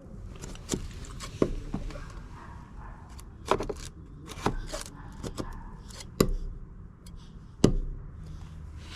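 A small drywall jab saw being stabbed and pushed into a painted wooden deck board to start a plunge cut: about six sharp, irregular knocks of the blade tip striking the wood, a second or so apart.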